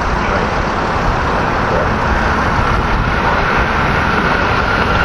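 Electric passenger train passing at speed: a loud, steady rush of wheel and rail noise with a faint steady whine above it.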